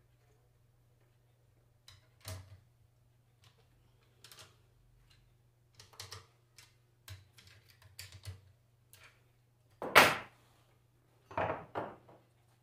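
Tools and metal parts being handled on a workbench: a series of scattered clicks and knocks, with the loudest knock about ten seconds in and a quick cluster of knocks shortly after.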